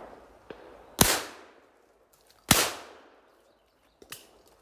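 Shotgun fired twice, about a second and a half apart, each shot loud and sharp with a long fading echo. A faint click follows near the end.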